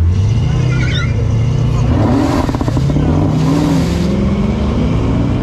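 Chevrolet Camaro ZL1's supercharged V8 revving up from idle for a burnout attempt, its note stepping up and then climbing slowly. A rush of noise runs through the middle for about two seconds as the rear tyres spin.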